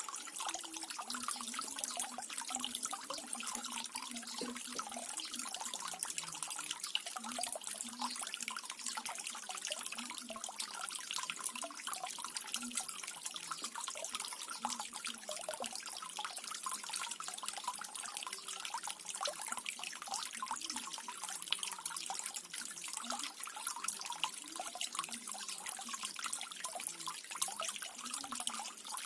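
Small garden waterfall fountain: water splashing and trickling steadily into a pool, a dense patter of small splashes.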